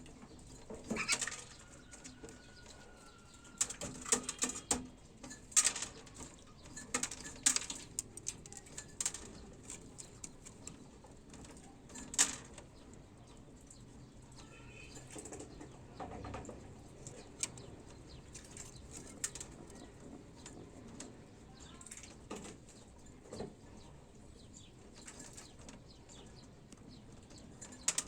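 Pigeons moving about: irregular short bursts of wing flapping and scuffling, busiest in the first half.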